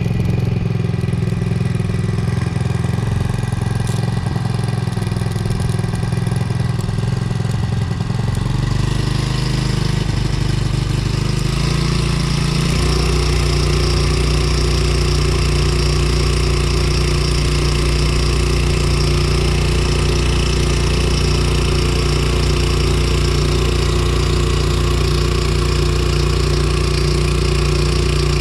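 Hangkai 4 hp four-stroke outboard motor running steadily through its first break-in run, brand new. Its note changes about nine seconds in and again a few seconds later as the engine speed shifts.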